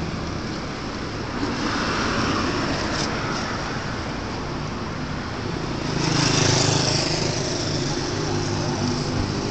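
Road traffic with engines running, a vehicle growing louder and passing about six seconds in.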